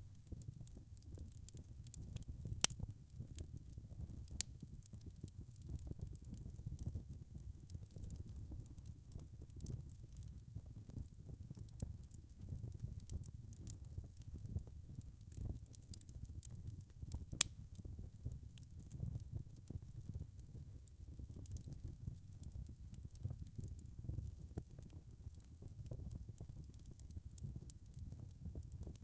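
Wood fire crackling in a fireplace: a low steady rumble of burning with a constant scatter of small crackles, and two sharper pops, one a few seconds in and one a little past the middle.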